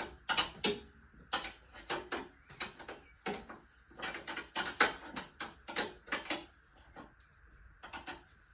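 Metal hand tools and car parts clinking and clanking in quick, irregular runs, the sound of working loose bolts and handling parts during a strip-down.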